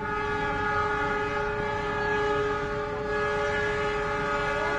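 Steady hum of a passenger train standing at the platform with its machinery running: several unchanging tones at an even loudness. A few faint gliding tones come in near the end.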